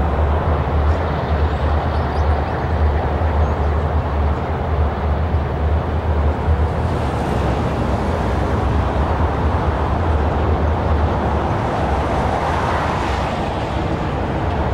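Steady rumble of a long train of passenger-style rail cars rolling past, mixed with freeway traffic; the deep part of the rumble eases near the end.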